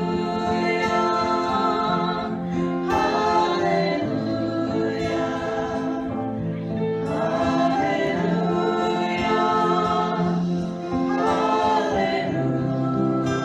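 Several voices singing long held notes in harmony over a strummed acoustic guitar.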